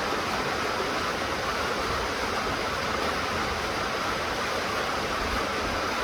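Steady rain falling as an even hiss, with no single drops, thunder or changes standing out.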